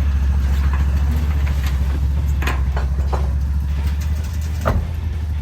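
Vehicle driving along with a steady low drone of engine and road noise, and a few short knocks.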